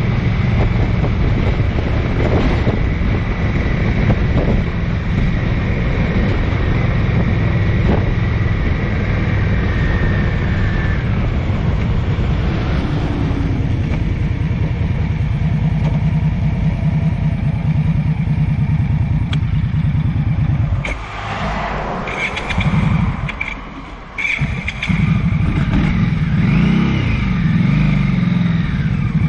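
Motor vehicle engine running steadily under way; the sound drops off for a few seconds about three-quarters of the way through, then comes back up.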